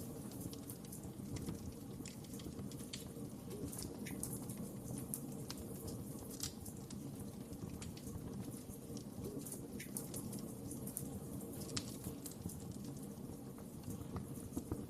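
Fire crackling: scattered sharp pops and snaps over a low, steady rumble of flames.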